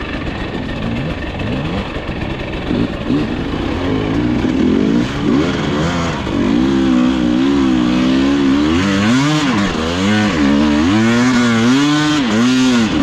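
Dirt bike engine revving up and down under repeated throttle, its pitch rising and falling about once a second, getting louder and steadier from about halfway through.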